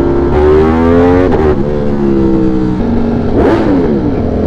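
V4 sport motorcycle engine pulling through the gears, its pitch climbing and then dropping at two upshifts, about a second and a half in and near three seconds. Around three and a half seconds a second engine note sweeps briefly across it.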